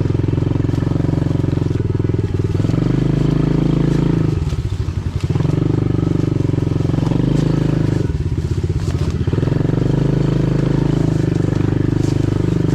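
Pit bike's single-cylinder engine running under throttle on a trail ride, easing off twice, about four seconds in and again about eight seconds in, so that its separate firing beats can be heard, then picking up again.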